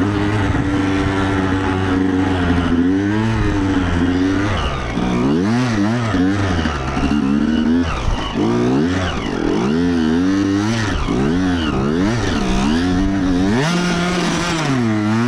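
Dirt bike engine running, held fairly steady for the first few seconds, then revving up and down over and over, rising and falling about once a second.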